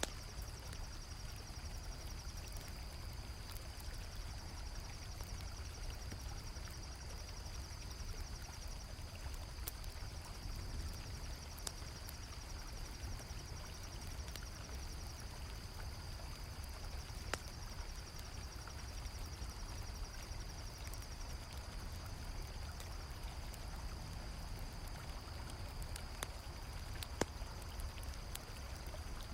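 River water flowing steadily, with crickets trilling continuously and a second pulsing insect trill that stops about two-thirds of the way through. A campfire crackles with a few sharp pops scattered throughout.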